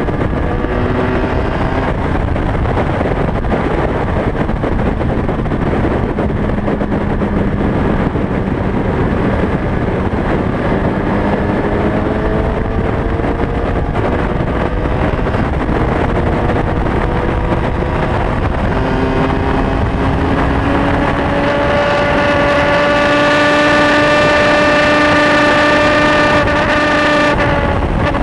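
Honda CB600FS inline-four motorcycle engine pulling at road speed under constant wind rush, its pitch climbing several times as it accelerates through the gears. Over the last several seconds it holds high, steady revs and grows louder, then backs off suddenly near the end.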